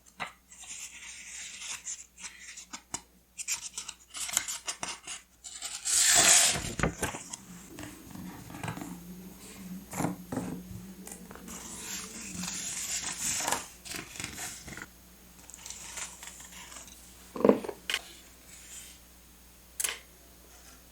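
Paper and stationery being handled for scrapbooking: irregular rustling, crinkling, taps and clicks, with a louder rustle about six seconds in.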